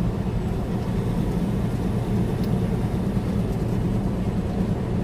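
Steady low drone of a heavily loaded semi-truck's diesel engine and road noise at a constant highway speed of about 65 mph, heard from inside the cab.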